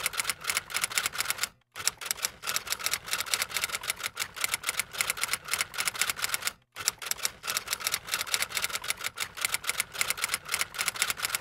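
Rapid, sharp mechanical clicking, like typewriter keys or a camera shutter firing, laid on as a soundtrack. It breaks off briefly twice, about five seconds apart, as a repeating loop.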